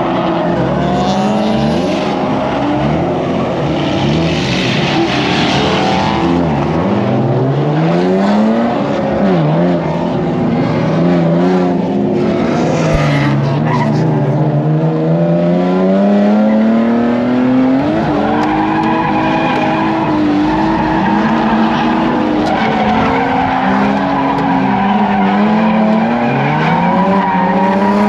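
BMW E36 drift car's engine revving up and down over and over through a drift run, with its tyres squealing and skidding.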